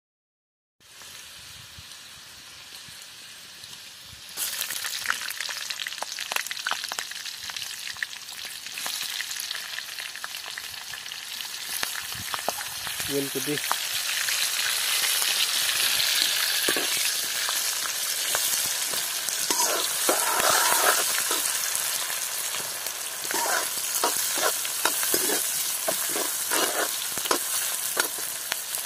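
Hot oil sizzling in a wok as chopped onions and chilies fry, louder from about four seconds in. A metal ladle scrapes and clinks against the pan as the food is stirred, most often in the second half.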